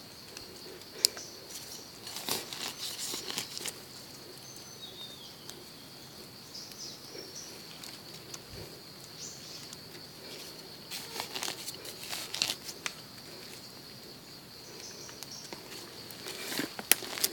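Dry leaf litter rustling and crackling in a few short bursts, about two seconds in, again around eleven to thirteen seconds and near the end, over a steady high-pitched insect drone.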